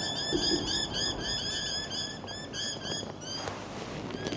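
An animal calling: a fast, even run of high chirps, about eight a second, that fades out a little after three seconds in.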